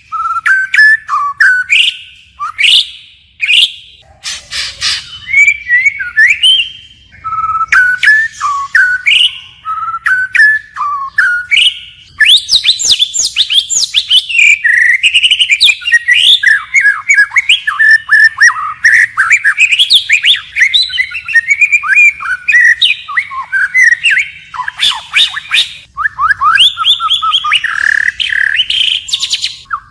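White-rumped shama singing, changing phrase continually: varied whistled phrases with short gaps between them, turning into a dense, almost unbroken run of rapid notes about halfway through.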